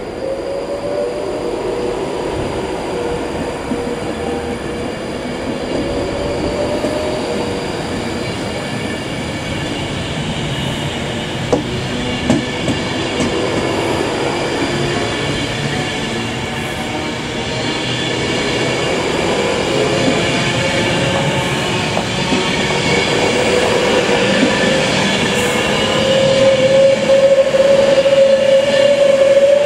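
Class 390 Pendolino electric train departing, its coaches rolling past with a steady rumble that grows louder as it gathers speed. A high whine rises a little in pitch and strengthens near the end, and there are a couple of brief clicks about a third of the way through.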